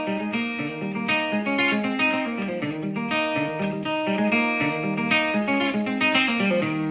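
Acoustic guitar playing an instrumental passage, picked and strummed chords changing about once a second.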